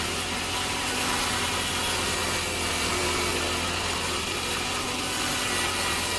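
Sawmill saw cutting steadily through a log, with a steady low hum from the machine underneath.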